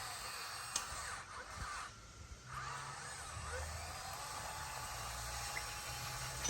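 Bulldozer's diesel engine running, with a whining tone that rises about halfway through and then holds steady over a low hum; the noise dips briefly about two seconds in.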